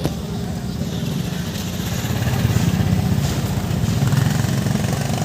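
An engine running with a steady low rumble that grows a little louder after about two seconds.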